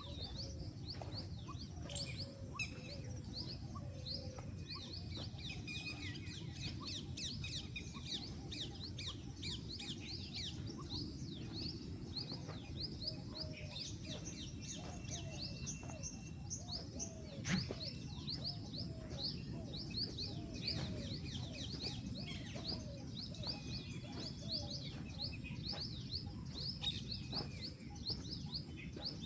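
Songbirds chirping continuously, many quick high chirps repeated over and over, over a low steady background rumble and a thin steady high-pitched whine. A single sharp click about two-thirds of the way through.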